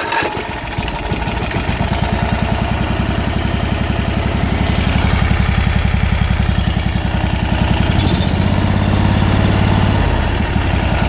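Newly bought 670 cc V-twin small engine running on choke just after being started from a booster, with an even rapid pulse. Its speed rises a little about eight seconds in and settles back down near the end.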